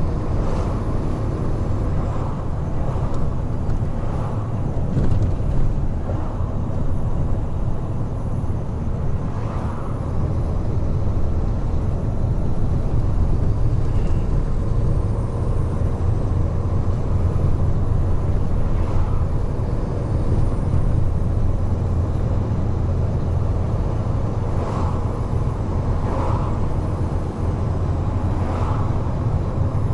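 Large truck cruising on an expressway: a steady low engine and tyre rumble, with brief swells of noise every few seconds.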